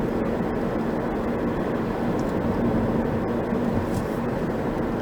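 Steady road and engine noise of a moving car, heard from inside the cabin, with a constant low hum.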